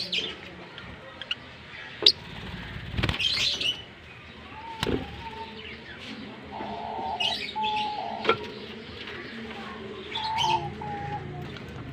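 Green Fischer's lovebirds chirping in short, scattered bursts, with a few sharp clicks between the calls.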